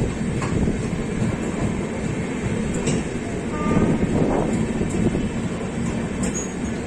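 Rajdhani Express passenger coach running along the track: a steady rumble of wheels on rails, with a few faint clicks.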